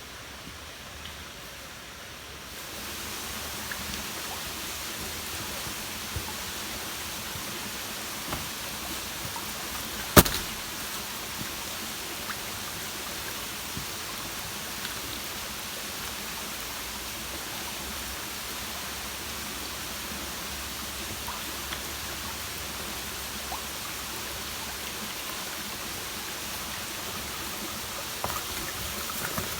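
Steady rushing outdoor noise that gets louder about two and a half seconds in, with a single sharp click near the middle.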